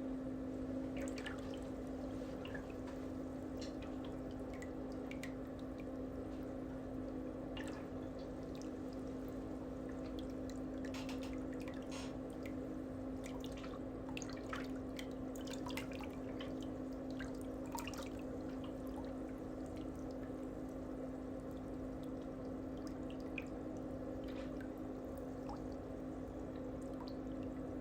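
A steady low electrical hum, with scattered faint ticks and crackles of adhesive tape being picked and peeled from under a toenail enhancement.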